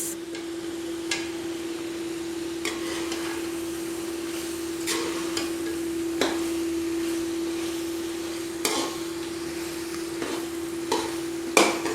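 Spoon stirring a spiced tomato gravy in a cooking pot, clinking against the pot now and then over a steady sizzle, with a constant hum underneath.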